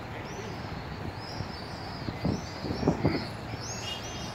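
Small birds chirping over and over, short high-pitched calls, against a steady outdoor hiss, with a few low thumps about two to three seconds in.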